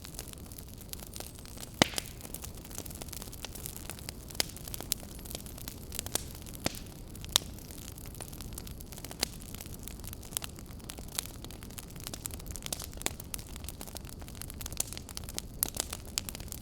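Wood fire burning in a fireplace: a steady low rumble of flames with irregular sharp crackles and snaps, a few louder pops among them.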